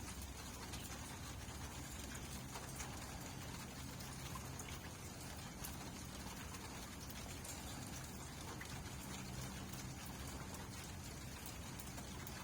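Steady light rain, with scattered individual drops ticking on a surface.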